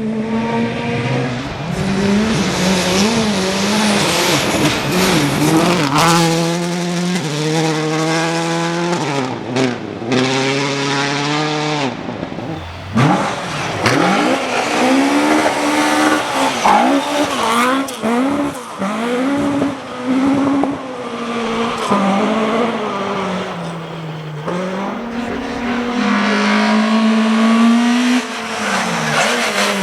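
Rally car engines revving hard, climbing in pitch and dropping back at each gear change, as cars pass at speed. The sound jumps between several different cars a few times.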